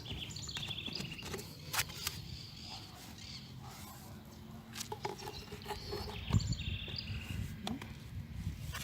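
Birds chirping in the background in two short bouts of quick repeated notes, with a few sharp clicks and knocks from handling PVC pipe fittings.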